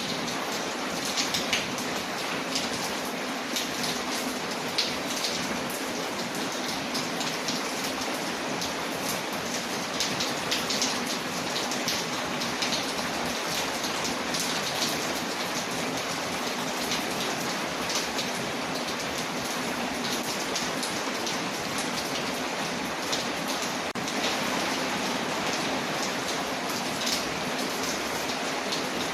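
Steady rain on a window with frequent small ticks and pops, mixed with a crackling wood fire.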